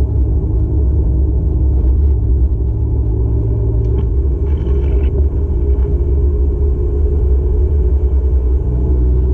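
Steady low engine and road rumble heard from inside a moving car's cabin, the engine note shifting about four seconds in and again near the end.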